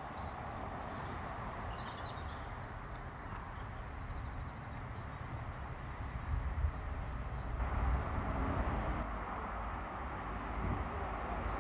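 Birds chirping and twittering over a steady low outdoor rumble.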